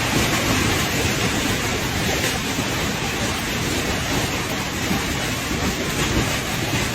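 Heavy hail and rain pounding down: a dense, steady rush of countless small impacts.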